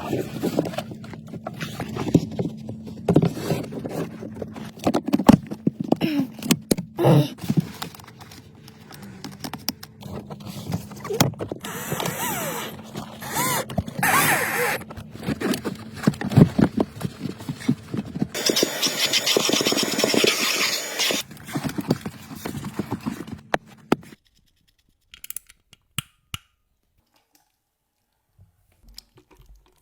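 Scraping, clicking and knocking of hands and tools working on car parts over a steady hum, stopping about 24 seconds in, followed by near silence with a few faint ticks.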